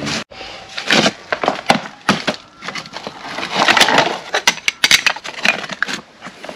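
Irregular clattering: a quick run of sharp knocks and clicks of hard objects being handled and set down, densest in the middle.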